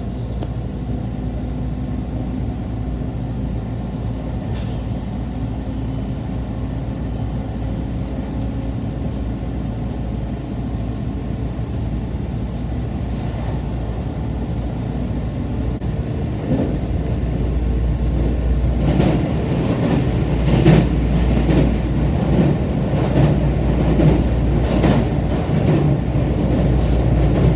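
Train running on the rails with a steady low rumble. From about two-thirds of the way through, rattling and knocking build up and grow louder.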